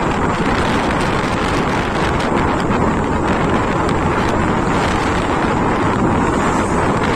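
Steady wind rushing over the microphone of a moving motorcycle, with the bike's running and road noise underneath.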